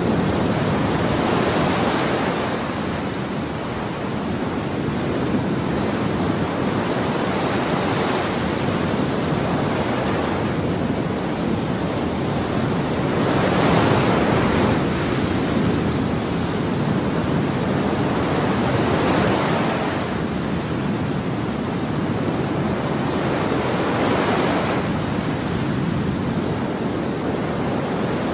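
Ocean surf: waves breaking and washing in one after another, a continuous rushing hiss that swells every five or six seconds.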